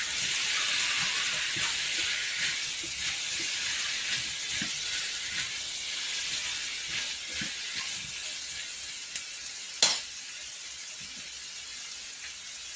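Pinakbet vegetables sizzling in a hot wok as they are stirred, with small scrapes and taps of the spatula; the sizzle slowly dies down. A single sharp knock about ten seconds in, the spatula struck against the pan.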